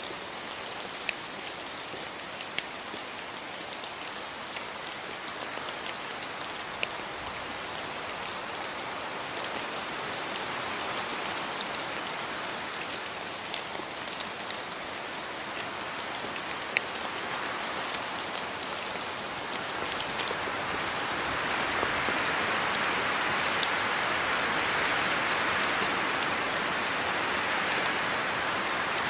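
Steady rain falling, with sharp ticks of single drops landing close by; the rain grows louder about twenty seconds in.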